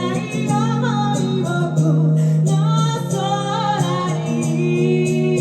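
Live acoustic song: a woman singing over acoustic guitar, her voice dropping out about four seconds in while the guitar plays on.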